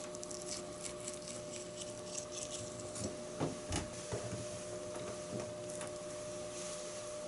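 Kitchen knife cutting and scraping through the rib bones and belly of an aged Spanish mackerel (sawara) on a cutting board. It gives light clicks and rasps, with a few soft knocks a little past the middle, over a steady hum.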